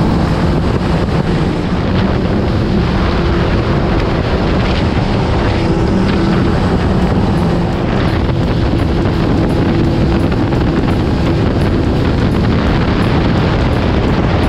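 Motorcycle engine and exhaust running at a steady pace while riding, under heavy wind rumble on the microphone.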